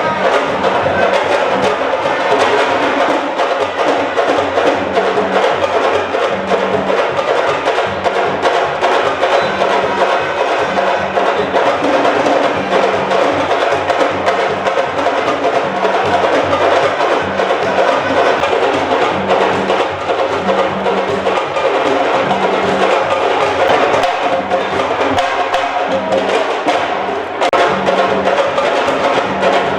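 Percussion music: drums playing a steady, driving beat.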